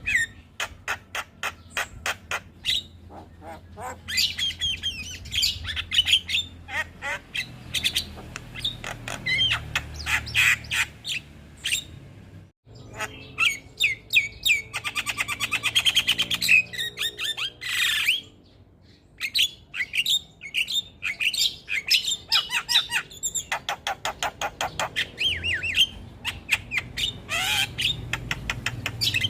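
Javan myna (jalak kebo) chattering in fast runs of sharp clicks and squawks, with two brief breaks about twelve and eighteen seconds in.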